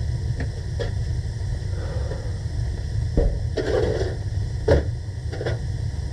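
Gas-fired boiler running with a steady low rumble, its burner lit on the newly replaced gas valve, while scattered knocks, clicks and a short scrape of handling sound over it.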